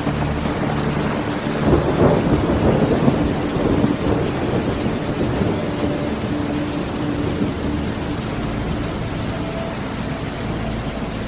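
Steady rain with a roll of thunder that swells about a second and a half in, crackles loudest for a couple of seconds, then rumbles away under the rain.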